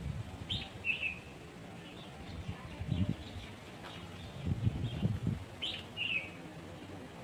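A small bird calling twice, about five seconds apart, each call a short high chirp followed by a lower note. A few low, muffled thumps come in between.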